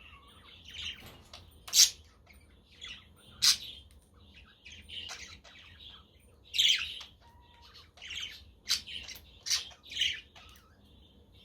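Pet budgerigars chirping and chattering in a steady string of short calls, with a handful of sharp, loud squawks scattered through.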